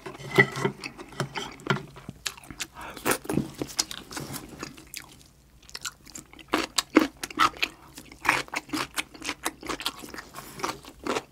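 Close-miked eating sounds: a person chewing and crunching mouthfuls of curry rice and kimchi, with wet smacks and crisp bites, pausing briefly about halfway through.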